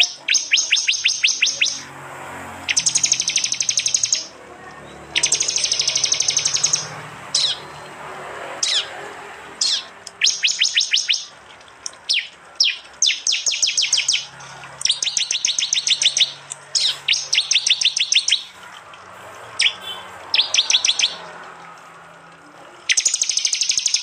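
Prinias (prenjak) calling in repeated bursts of rapid, sharp ticking notes, each burst about one to two seconds long. A few short single falling whistles come between the bursts.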